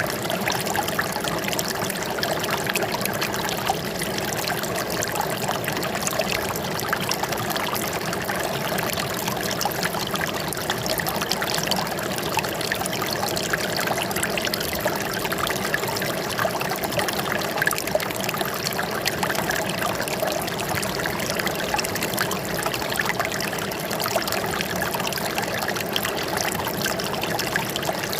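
Running water trickling and splashing steadily, an even rush dotted with many small splashes.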